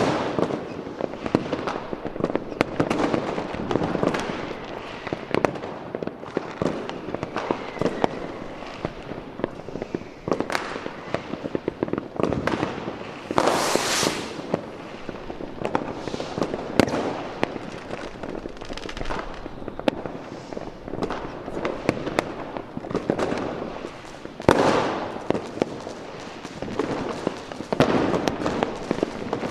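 Fireworks going off in a dense, continuous barrage of bangs and crackling, with a brief high hiss about halfway through and the loudest bang a few seconds before the end.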